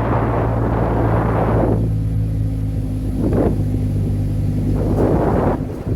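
Motorcycle engine running steadily with a low hum, under wind rushing over the microphone that eases after about two seconds and swells briefly twice later.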